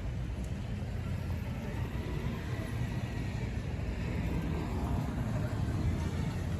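Steady low rumble of motor vehicle traffic or road noise, even in level throughout.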